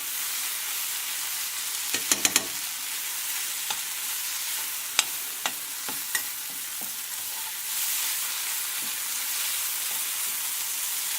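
Onions and tomatoes with garlic and ginger paste sizzling in a frying pan, with a utensil knocking and scraping against the pan as the mixture is stirred. There is a quick cluster of knocks about two seconds in and a few single clicks a few seconds later.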